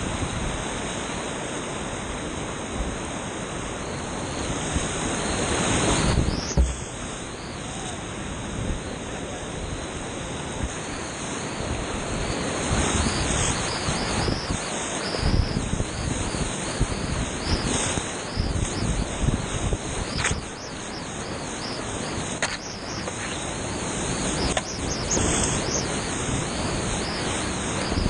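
Rushing whitewater of a creek rapid, a steady loud hiss, with irregular low bumps from wind buffeting the microphone.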